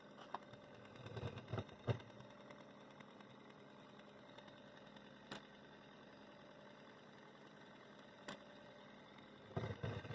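Faint steady hum with a few scattered sharp clicks and knocks: a short cluster early, two single clicks in the middle, and another cluster near the end.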